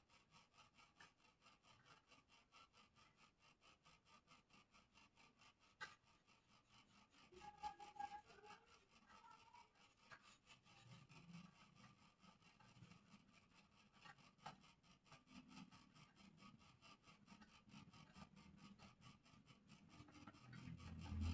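Faint, quick strokes of sandpaper rubbing on a wooden bird cage part, about four strokes a second, with a single sharp click about six seconds in. The rubbing gets louder near the end.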